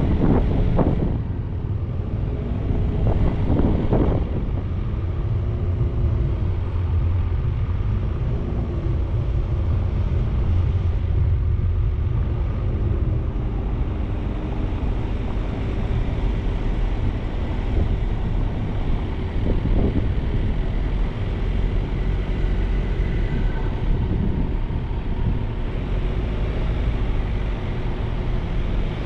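Motor vehicle driving: a steady low rumble of engine and road noise, with the engine's pitch rising and falling.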